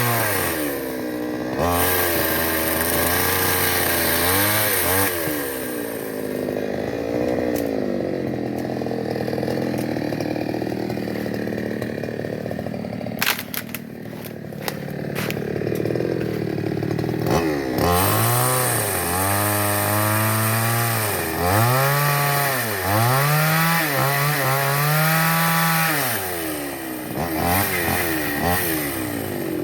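Two-stroke chainsaw engine being revved up and down again and again. It settles lower in the middle, where a few sharp clicks sound, then returns to a quick run of throttle blips.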